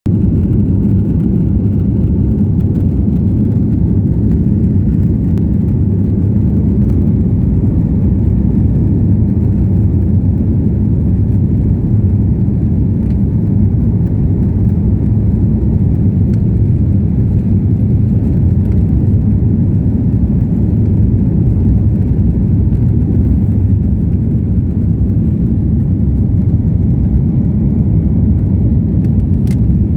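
An airliner's jet engines and airframe during the takeoff, a loud, steady low rumble that holds without a break.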